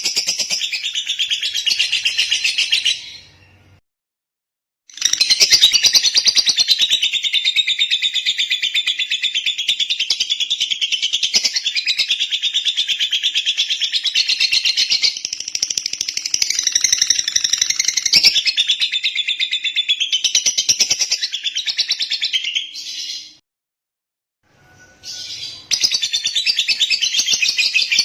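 Lovebird singing a long, rapid chattering song, twice broken by a second or two of silence.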